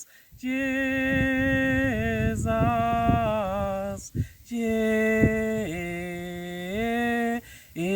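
Slow sung worship chorus holding the word 'Jesus' on long, sustained notes that glide down in steps, with a short breath pause about halfway through.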